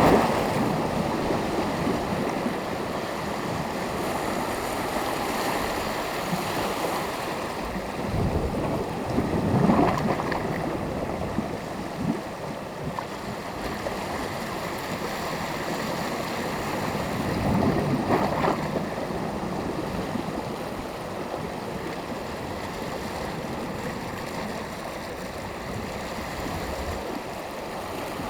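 Small sea waves breaking and washing on the shore in steady surf, with louder surges about a third of the way in and again past the middle.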